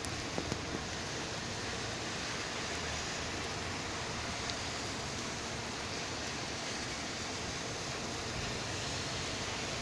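Steady rainfall, an even hiss, with a few faint ticks in the first second.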